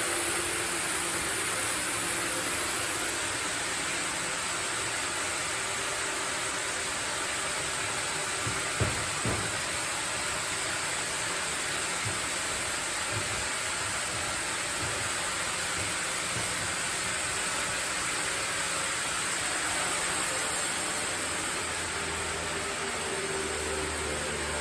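Sawmill machinery running with a steady hiss-like noise, with two short knocks about nine seconds in.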